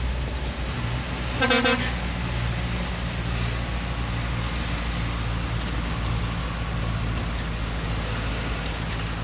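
A single short car horn honk about a second and a half in, over the steady low hum of vehicle engines in stalled traffic.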